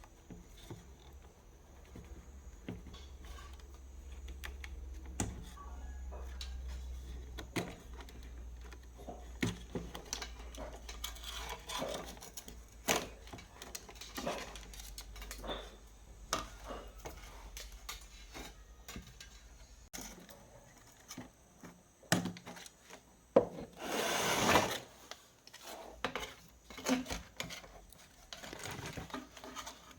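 Hand work on a bench: scattered sharp clicks, rubbing and short scrapes, with a low steady hum under the first two-thirds and one longer, louder scrape of about a second a little before the end.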